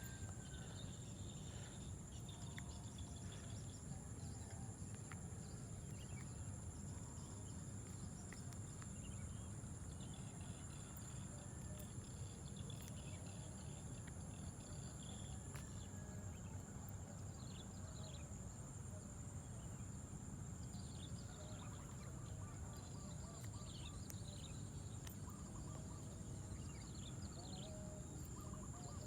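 Insects shrilling steadily at a high pitch, with scattered short bird chirps and a constant low rumble underneath. One of two insect tones stops about halfway through.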